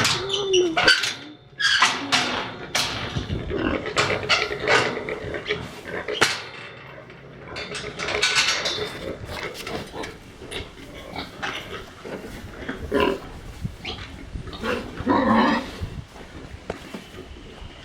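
Farm animals making a run of short, noisy calls at irregular intervals, with a few sharp knocks among them.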